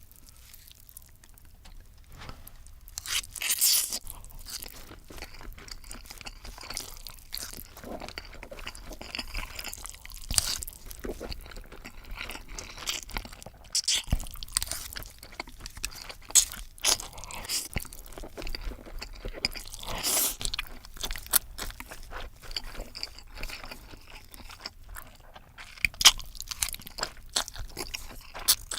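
Close-miked eating: a person chewing and crunching food in irregular bites, with several louder, sharper bursts scattered through.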